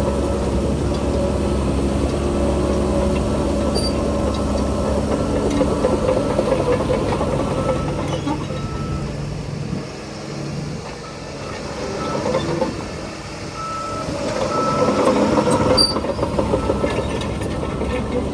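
Heavy diesel construction machinery running, the bulldozer and dump trucks working stone fill, with a backup alarm beeping in short repeated tones. The engine note eases about halfway through, then builds up again.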